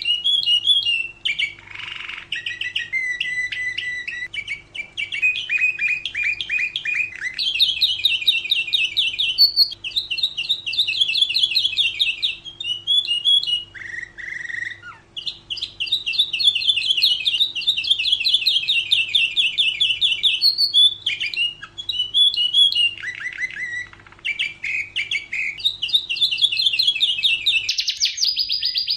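Domestic canary singing a long continuous song of fast trills and rolls, each phrase a rapid run of repeated notes, changing from one phrase to the next. A faint steady hum lies underneath and drops out near the end.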